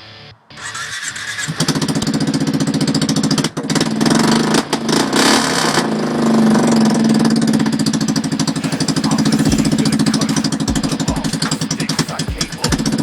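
Kawasaki Prairie 360 ATV's single-cylinder engine with the muffler removed, straight-piped, starting up and then running, with a rev burst about four to six seconds in before settling back to a steady idle.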